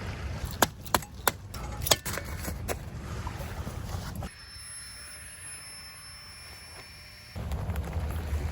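Wind rumbling on the microphone, with several sharp knocks or clicks in the first two seconds. In the middle the wind noise drops away for about three seconds to a quieter stretch with a faint high whine, then comes back.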